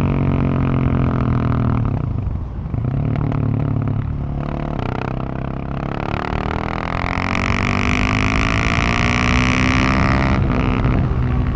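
Husqvarna 701 supermoto's single-cylinder engine heard close at the exhaust, running under load. There is a short dip in throttle about two seconds in. The pitch eases down, then climbs under acceleration from about six seconds in, and the throttle closes abruptly near the end.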